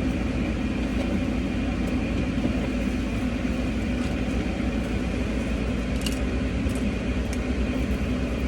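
Steady hum of a car idling, heard from inside the cabin, with a few faint clicks about six to seven seconds in.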